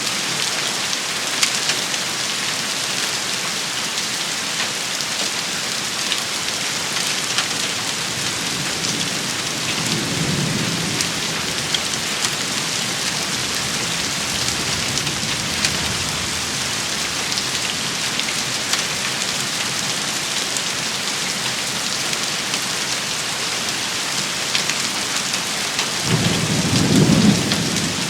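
Steady heavy rain with sharp ticks of hail striking, and low thunder rumbling twice: softly about a third of the way in, and louder near the end.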